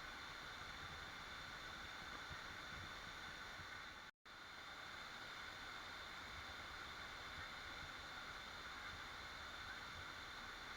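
Steady rushing of a waterfall, with a sudden gap of silence for a fraction of a second about four seconds in.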